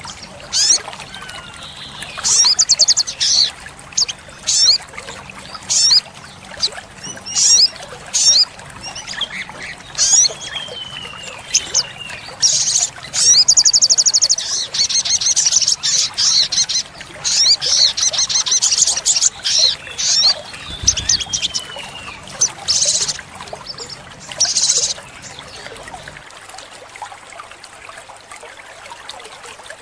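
Olive-backed sunbird singing: quick, high-pitched chirps and rattling trills with a few falling glides, including a long fast trill about thirteen seconds in, over a steady trickle of water. The song stops about 25 seconds in.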